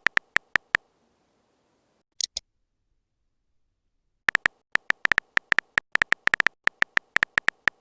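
Rapid, irregular sharp clicks in quick runs, broken by two short high chirps about two seconds in and a silent gap before the clicking picks up again.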